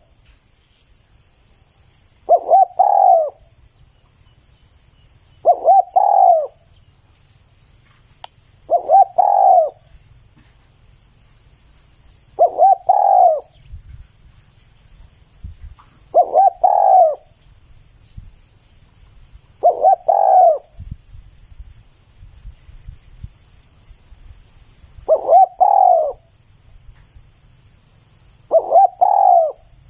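Spotted dove cooing: a short, loud, breaking coo of two or three notes, repeated about every three to four seconds, eight times. A steady faint high trill runs behind it.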